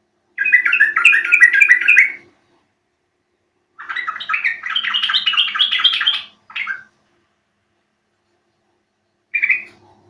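Yellow-vented bulbul (trucukan) singing: two bubbly phrases of quick warbled notes, each about two seconds long, then a short call shortly after and another near the end.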